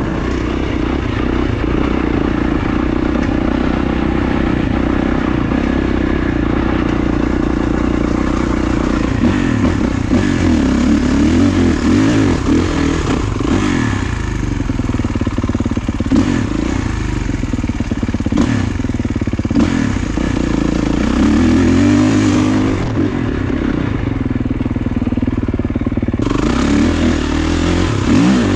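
Kawasaki KX450 motocross bike's single-cylinder four-stroke engine running under load, its revs rising and falling again and again as the throttle and gears change. A few short knocks come through along the way.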